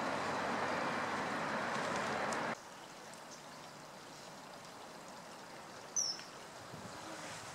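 Steady rush of stream water that cuts off abruptly about two and a half seconds in, leaving a quieter background. About six seconds in, a common kingfisher gives one short, shrill, high call.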